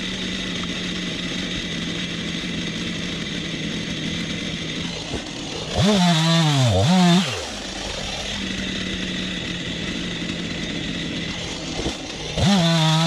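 Stihl MS 251 C two-stroke chainsaw idling, revved up hard about six seconds in and again near the end; each time the engine pitch climbs, wavers and drops back to idle.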